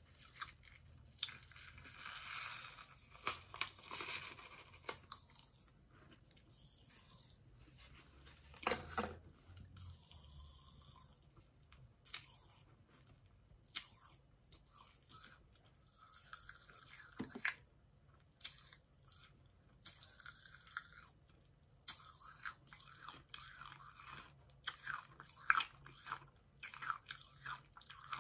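A person chewing and crunching candy: irregular short crunches and chews with brief pauses between them.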